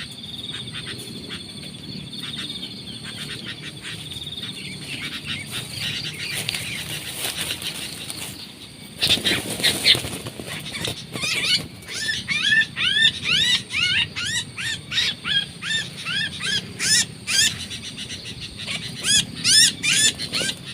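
Sooty-headed bulbuls calling: a high steady trill at first, then a brief loud rustling flurry about nine seconds in, followed by a fast run of sharp rising chirps, several a second, until the end.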